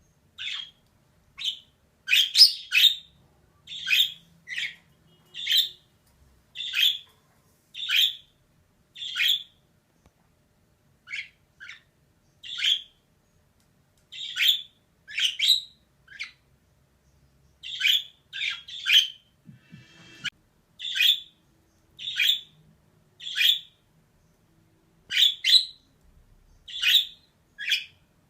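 Female budgerigar giving short, sharp chirps one after another, about one a second and sometimes in quick pairs, with brief silent gaps between them.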